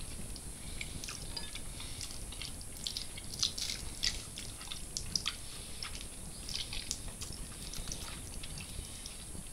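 A person chewing fried catfish picked off the bone by hand, with quiet, irregular wet mouth clicks and smacks.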